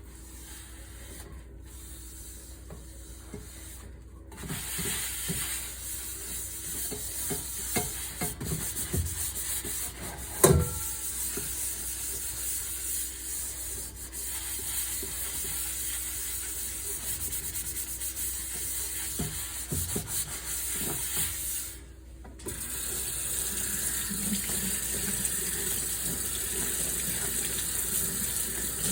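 Tap water running into a kitchen sink during dishwashing, starting about four seconds in, with scattered knocks of dishes and one sharp ringing clank about ten seconds in. The water stops briefly and comes back on.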